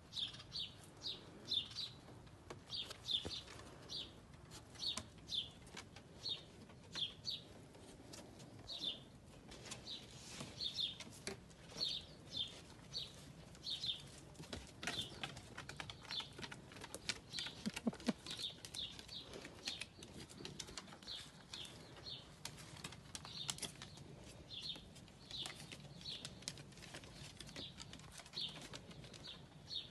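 A small songbird repeating a short, high two-note phrase about once a second, over faint ticks and rustling.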